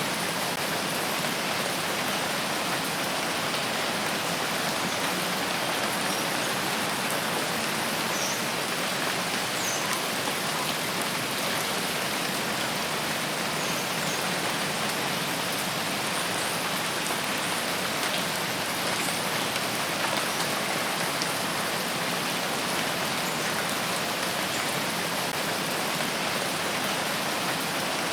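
Steady rain falling in a rain forest: an even, unbroken hiss with no pauses or swells, and a few faint high chirps in the first half.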